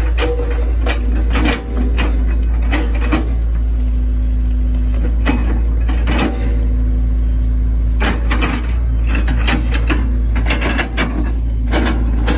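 Hitachi ZX110 MF excavator's diesel engine running steadily, with repeated clusters of sharp cracks and knocks as the bucket slices through an oil palm trunk. There are two short lulls with a steady hum.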